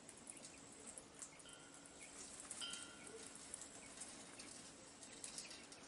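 Faint outdoor ambience: two short bird chirps, about a second and a half and two and a half seconds in, over soft scattered clicks.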